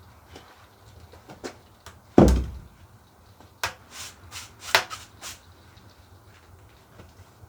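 A heavy thump about two seconds in, then a quick run of sharper knocks and clacks, as of hard objects being handled and set down.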